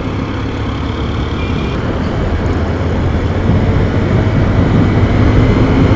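Motorcycle ridden at speed, heard through a lavalier microphone: a steady engine drone under a rush of wind and road noise, slowly getting louder.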